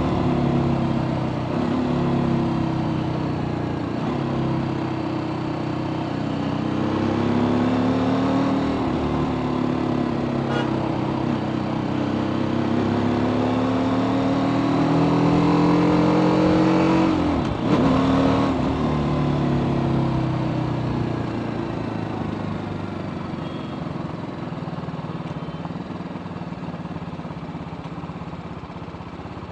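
TVS Apache RTR 310's single-cylinder engine through its stock exhaust under way. The revs climb and drop back several times as it shifts up through the gears, with a sharp drop about eighteen seconds in, then it eases off and grows quieter near the end.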